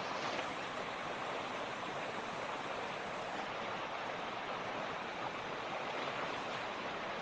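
Mountain creek running, a steady, even rush of flowing water without letup.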